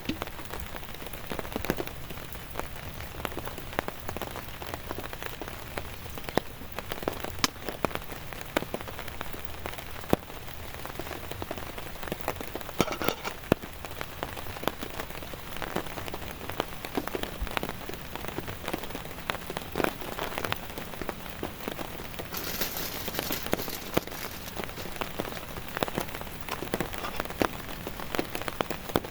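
Heavy rain falling steadily, with many separate drops pattering close by. A brief stronger hiss comes about three quarters of the way through.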